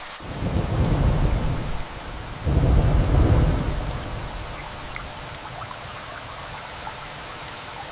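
Steady rain with thunder rumbling twice in the first half. The second roll is the louder, starting about two and a half seconds in, and both fade out, leaving the rain hiss and a few scattered drop ticks.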